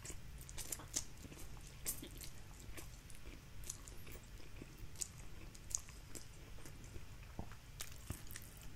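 A person chewing a mouthful of dry stir-fried instant noodles, quietly, with small irregular wet mouth clicks and smacks.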